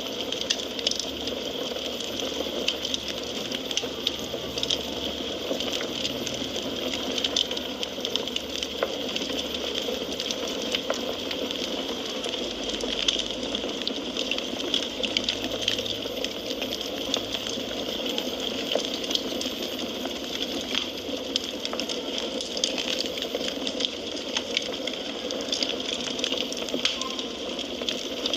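Wood fire crackling in a fireplace: a steady hiss and rush of flames, with many small, quick pops and snaps.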